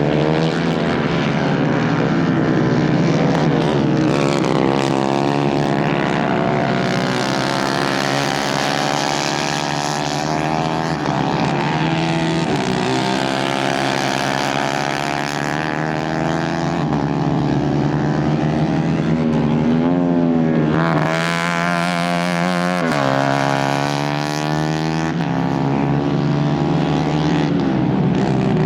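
Several 150cc racing kart engines running hard together, their pitches sliding up and down with revs as they pass.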